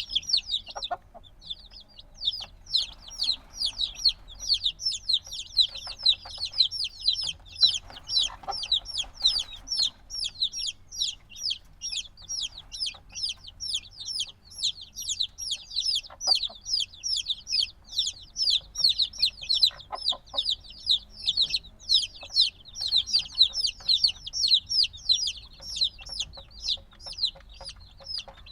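A brood of chicks a few days old chirping constantly, many overlapping high-pitched falling peeps in quick succession; this loud peeping is typical of young chicks that still want the mother hen's warmth.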